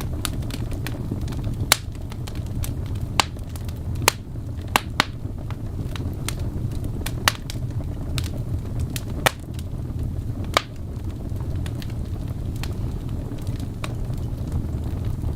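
Wood fire burning in a fireplace: a steady low rumble of flames with irregular crackles and pops throughout, and a handful of louder snaps.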